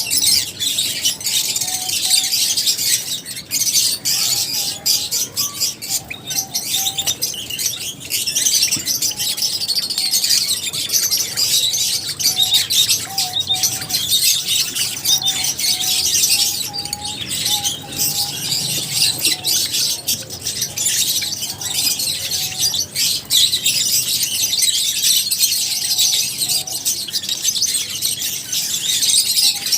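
A flock of lovebirds chirping continuously, many high, rapid chirps overlapping, with short sharp clicks scattered through and a faint steady tone coming and going.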